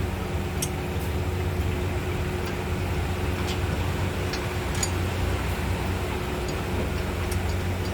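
Steady low mechanical hum in the background, with a few faint, sharp metallic ticks scattered through as a caliper pin nut on a car's front brake caliper carrier is fitted by hand and tool.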